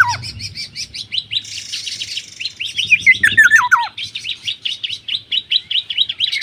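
A songbird singing a fast, continuous string of high chirps, broken by a run of notes falling in pitch about three and a half seconds in.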